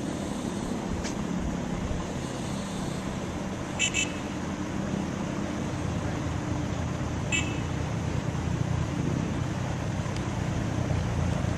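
Road traffic noise with a heavy vehicle engine running steadily. Two brief high-pitched sounds come about 4 s and 7 s in.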